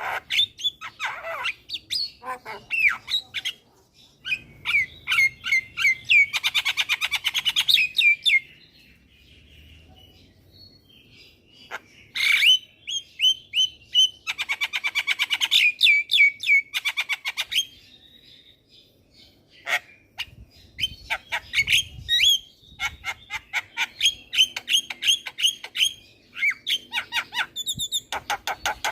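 Javan myna singing: fast runs of repeated harsh, chattering notes and squawks, broken by short pauses.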